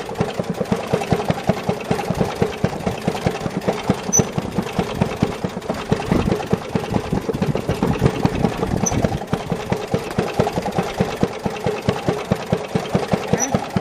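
Maytag Model 92 single-cylinder two-stroke engine running on a wringer washer, with quick, even firing pulses. Its exhaust is piped into a bucket of water, which keeps it quiet and leaves it sounding as if it is just barely running.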